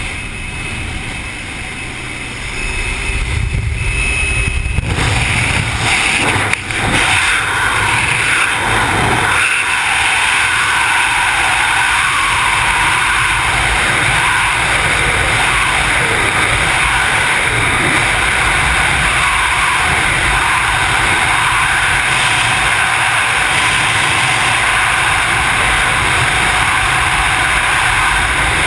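Loud, steady wind rush buffeting the camera microphone during wingsuit flight. It builds over the first several seconds as airspeed picks up, then holds.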